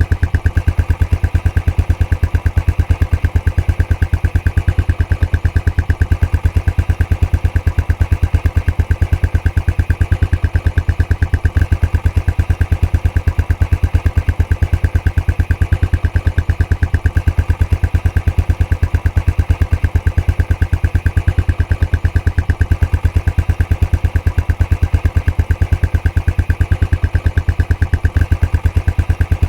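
Royal Enfield Classic 500's air-cooled single-cylinder engine idling through its stock exhaust, a steady, even train of exhaust beats that holds constant.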